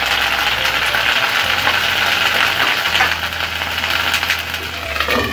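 Onion paste frying in hot ghee in a pan: a steady sizzling hiss with small crackles.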